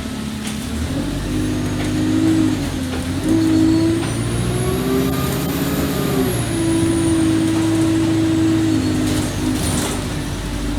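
Alexander Dennis Enviro200 bus engine running as the bus drives along; its note climbs about four seconds in, then drops sharply around six seconds in, with a faint high whine rising and falling over it.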